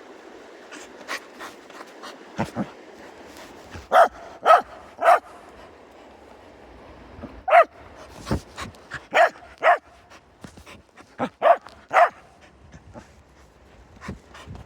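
A Mudi barking at a treat in short, sharp barks. Three quick barks come about four seconds in, then more follow in twos and threes until shortly before the end, with a few soft knocks between.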